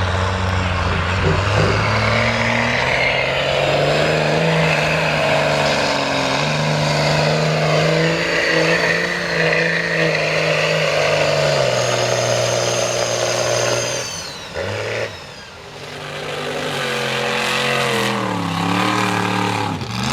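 Big mega truck engine running hard under load in mud, its pitch shifting as the throttle changes. The engine note eases off and falls away about two-thirds of the way through, then builds again near the end.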